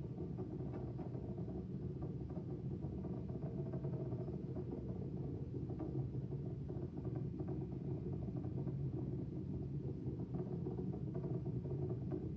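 Space Launch System rocket in powered flight on its core-stage engines and solid rocket boosters: a steady low rumble with faint crackling.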